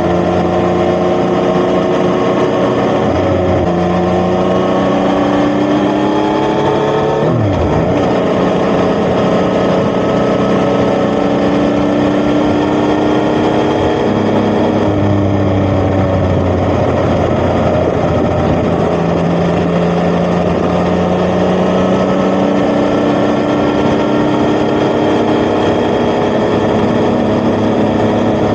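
Yamaha XSR900's three-cylinder CP3 engine through an Akrapovic titanium exhaust, riding: the engine note climbs through gear changes in the first several seconds, with a sharp dip in pitch around seven seconds in, eases off and falls about halfway through, then builds steadily again toward the end.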